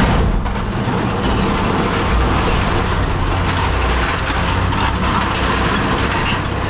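Heavy machinery running steadily: a low engine hum under a constant, even mechanical noise.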